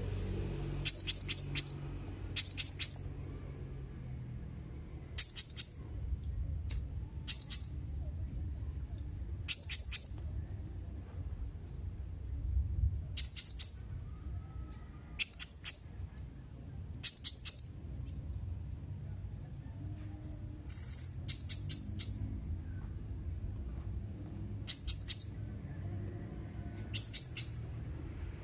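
Blue-crowned hanging parrot (serindit) calling: short groups of two to four sharp, very high chirps, repeated every couple of seconds.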